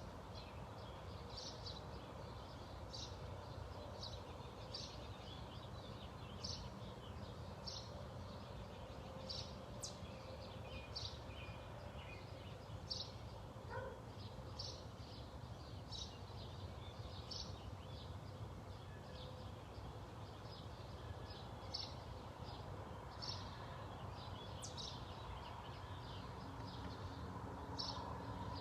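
A bird chirping: short, high single chirps repeated about once a second, over a steady low background rumble.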